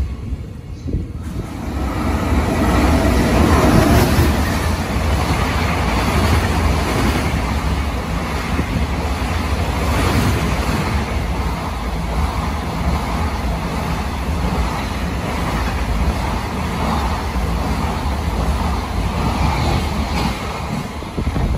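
Container wagons of a long freight train running past close by at speed, with a steady rumble and rattle of wheels on rail. It starts quieter and builds up loud about two seconds in.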